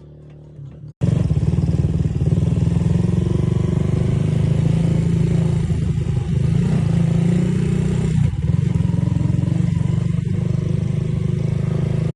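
Motorcycle engine running steadily, starting abruptly about a second in.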